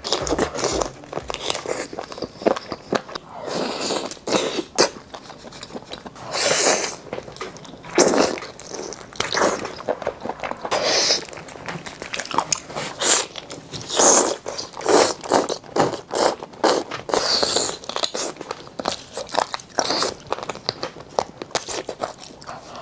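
Close-miked eating sounds: bites and chewing of sauce-coated seafood, coming in irregular bursts with small clicks between.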